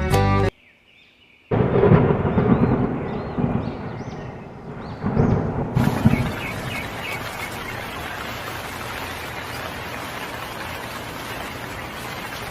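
Thunderstorm: thunder rumbling in swells, with the steady hiss of heavy rain coming in about six seconds in.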